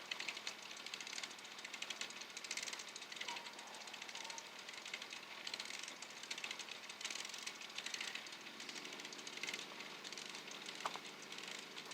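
Sleet or ice pellets ticking rapidly on surfaces in a steady patter, swelling and easing in waves every second or two.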